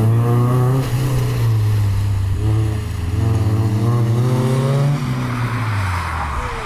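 Honda S2000's four-cylinder engine revving as the car slides on wet tarmac. The revs climb, dip briefly about two seconds in, climb again, then fall away after about five seconds, with a rushing hiss near the end.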